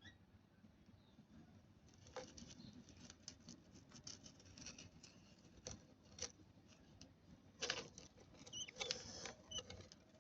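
Lovebird chicks shuffling and scratching in their nest, faint scattered rustling and clicks that start about two seconds in, with a few brief high squeaks near the end.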